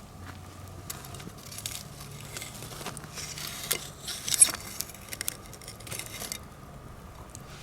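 Wood campfire crackling, with scattered sharp pops and a brief flurry of loud snaps about four seconds in. A faint steady low hum runs underneath.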